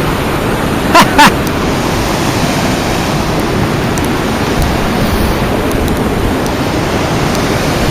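Steady, loud rush of Yosemite Falls pouring over its brink, an even roar of falling water. Two brief loud blips stand out about a second in.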